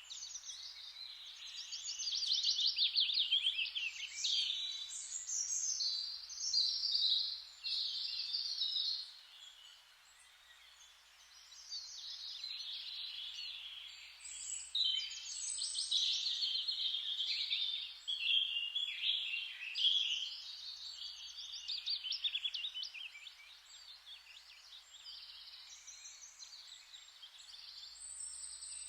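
Several songbirds chirping and trilling over a steady bed of hiss like rustling leaves, the bird calls easing off briefly partway through and thinning out near the end.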